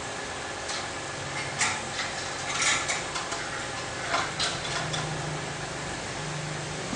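A series of short, irregular clinks and knocks, like hard objects handled and set down, over a steady background hum.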